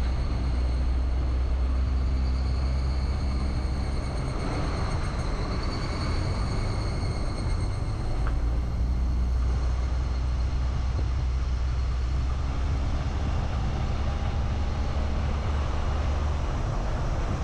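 Car driving along a road: a steady low engine and road rumble, with a faint steady whine above it.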